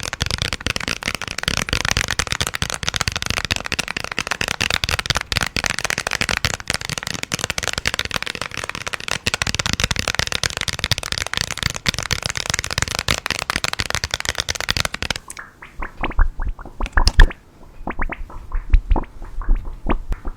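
Many small wrapped candies pouring and rattling together in a dense crackle for about fifteen seconds. It then thins to scattered single clicks and a few low knocks.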